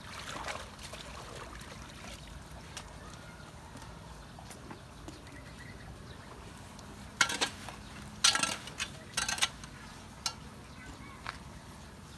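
Water running with small knocks, and three loud splashes in quick succession about seven to nine and a half seconds in, as debris at the culvert is worked loose.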